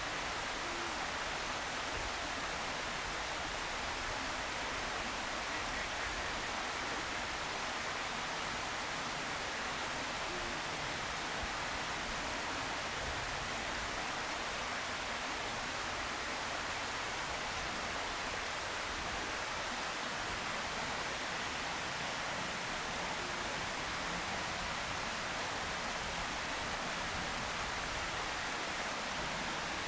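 Steady, even hiss with no distinct calls or events.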